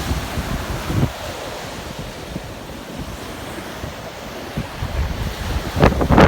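Gulf surf washing onto the beach, with wind buffeting the microphone in low rumbling gusts that get louder near the end.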